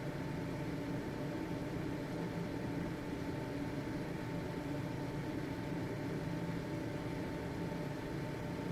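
Household ventilation fan running steadily: an even motor hum with a faint steady whine over airflow hiss.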